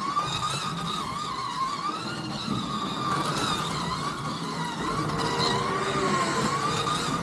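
Scalextric slot cars running on the track, their electric motors whining in a tone that rises and falls in pitch as the cars speed up and slow down through the corners, over a steady rattle of wheels and pickup braids on the track.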